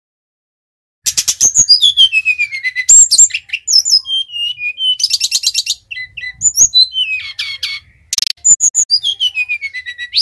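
A sikatan rimba dada coklat (brown-chested jungle flycatcher) singing a varied, loud song. Clear whistles slide down from high to lower pitch, mixed with quick rattling trills and short chirps. The song starts about a second in and breaks off briefly near eight seconds.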